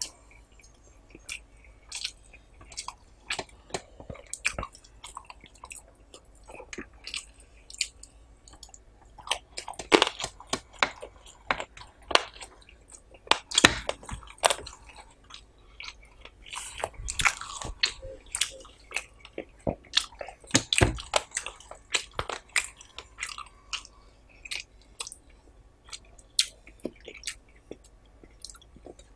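Close-up eating sounds of curry and rice being chewed: irregular wet smacks, bites and crunches, busiest in clusters through the middle.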